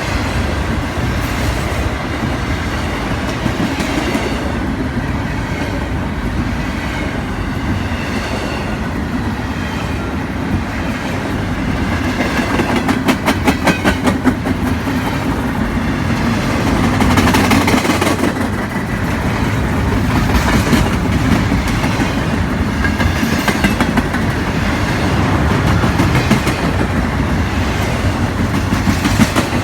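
Intermodal freight train rolling past, its cars' steel wheels rumbling on the rails, with a quick run of clicks about halfway through and a surge of clatter every few seconds after it as wheel sets cross rail joints.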